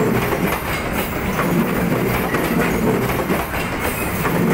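The coaches of the Jayabaya passenger train rolling past close by: a steady rumble with the wheels clicking over the rail joints.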